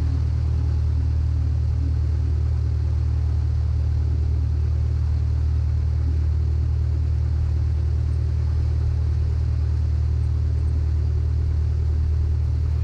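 Cessna 152's four-cylinder Lycoming O-235 engine running steadily at takeoff power, a constant low drone.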